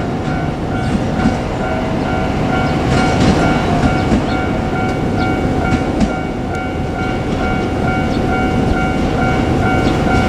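JR Kyushu 817 series electric train running past a level crossing, its wheels clicking over the rail joints. The crossing's warning bell rings steadily, about twice a second.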